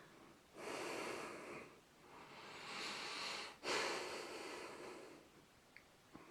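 A person breathing close to the microphone: three faint breaths about a second or so each, the third beginning abruptly.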